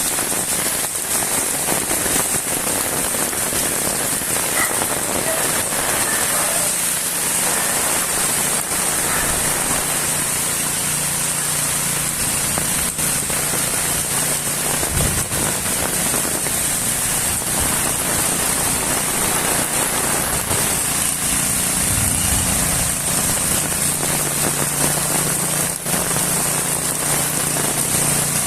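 Steady, fairly heavy rain falling on paving and other surfaces. A low steady hum joins it about six seconds in.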